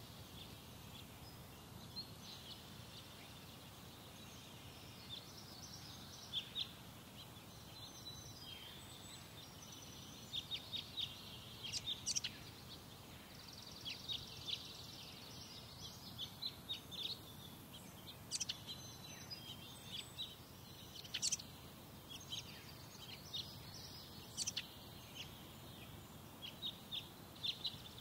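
Birds calling: many short, sharp chirps, singly and in quick clusters, scattered irregularly throughout, over a faint steady low background rumble.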